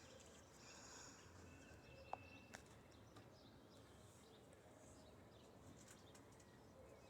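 Near silence: faint background with two soft clicks about two seconds in.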